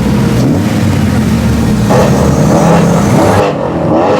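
V8 car engine exhaust running loud with a steady, fairly level pitch, an aftermarket exhaust on a performance car.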